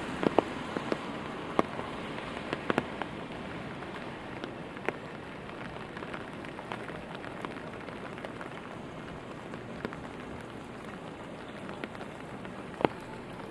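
Steady rain hiss with scattered sharp drops tapping close by, likely on an umbrella overhead. The taps come in a quick cluster in the first few seconds and there is one loud tap near the end.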